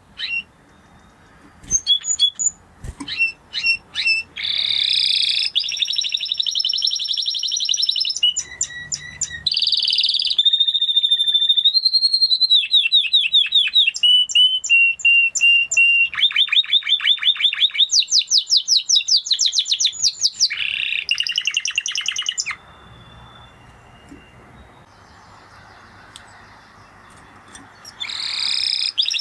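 Spanish Timbrado canary singing: a few short chirps lead into a long, continuous song of fast rolling trills, rapid repeated notes and held whistled notes. The bird breaks off for about five seconds and starts singing again near the end.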